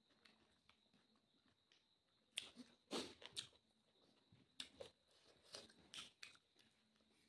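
A person eating by hand: chewing with close mouth sounds, a scattered run of short crunches and smacks from a couple of seconds in, louder around the middle.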